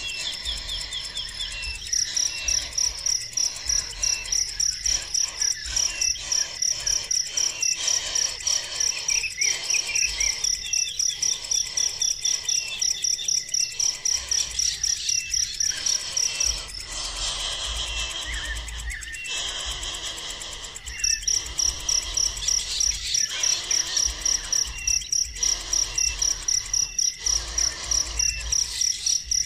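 An insect chirps in a steady, high-pitched pulse, about three times a second, and stops for a few seconds past the middle. Short, faint bird chirps come through now and then.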